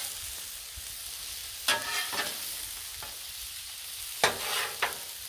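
Peeled shrimp frying in vegetable oil on a Blackstone steel flat-top griddle, giving a steady sizzle. A metal spatula scrapes and clanks against the griddle top a few times, around two seconds in and again around four seconds in.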